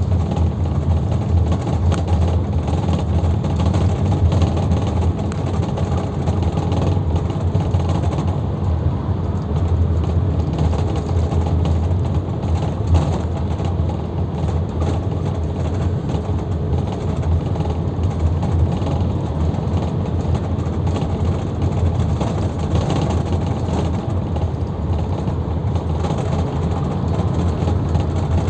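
Luidor 2250DS minibus heard from inside the cabin while under way: a steady low engine drone with road and cabin noise over it.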